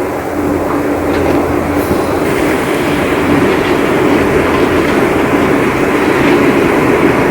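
Heavy rain: a steady, dense rushing noise that grows slightly louder, with a faint low steady tone that stops about two seconds in.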